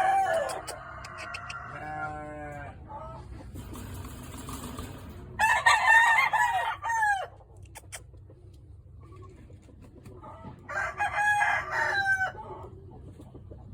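Gamefowl roosters crowing: the end of one crow at the start, then two full crows about five and eleven seconds in, each lasting a second and a half to two seconds. A short rattling cluck comes about two seconds in.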